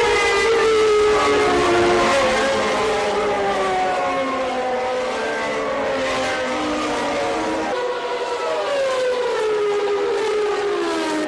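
1989 Formula One race car engines running at high revs, their pitch falling slowly over several seconds. About two-thirds in the sound changes abruptly, and near the end the engine note falls in pitch again.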